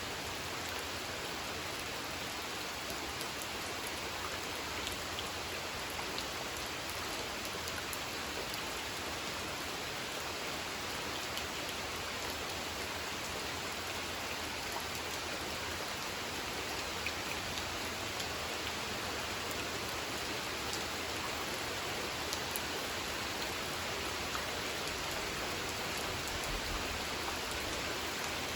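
Steady gentle rain falling onto a pond, an even hiss with scattered small drop ticks.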